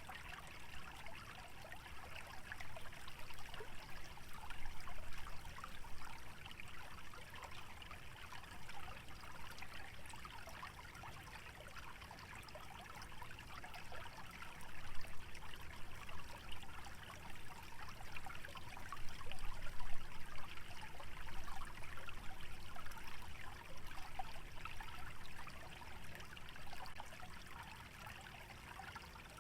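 Small wetland stream trickling and splashing continuously, swelling and easing in loudness, with a low rumble underneath.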